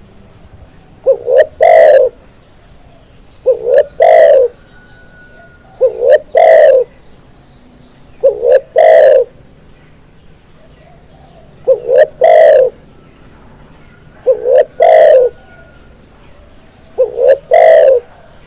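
Spotted dove (tekukur) cooing: seven loud phrases about every two and a half seconds, each a couple of short clipped notes followed by a longer low coo.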